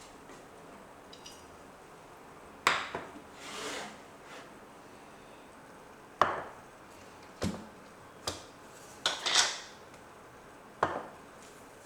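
Kitchenware being handled: about six sharp knocks and clinks of dishes and utensils being set down, with two brief rustling swishes in between.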